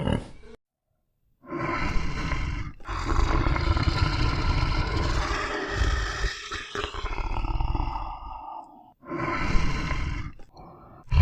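An animal roaring: a short roar about a second and a half in, a long roar of about five seconds, then two more short ones near the end.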